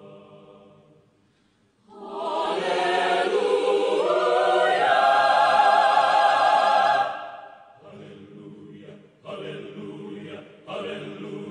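Choir singing: a soft phrase fades into a brief pause, then a loud held chord with vibrato swells for about five seconds, moving up midway, before softer phrases follow with short breaks between them.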